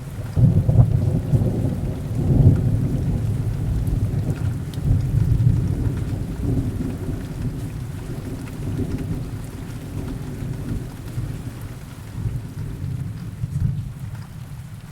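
A long rolling rumble of thunder, loudest in the first few seconds and slowly dying away, over steady heavy rain.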